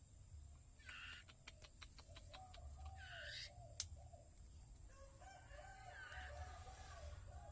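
Faint bird calls: a run of short, repeated low notes, broken by a few louder, higher calls, with a quick series of faint clicks about a second in.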